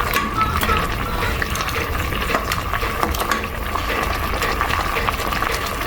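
Pot of brown stew sauce bubbling at the boil, with scattered small clicks and knocks as chicken pieces are dropped in and handled in the pot.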